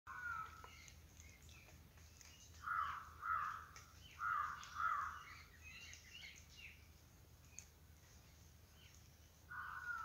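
A bird calling in short calls, mostly in pairs about half a second apart, once near the start, twice around the middle and again near the end. Faint, high chirps of smaller birds run behind it.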